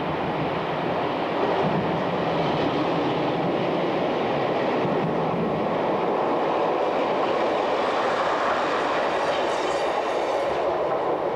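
First-generation diesel multiple unit passing at close range, its underfloor diesel engines running and its wheels running on the rails. A higher hiss joins for a second or two near the end.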